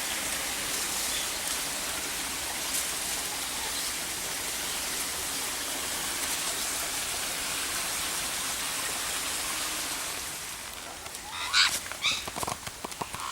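Steady rush of running water, like a stream or fountain. It drops away about ten seconds in and a bird gives several short, loud calls near the end.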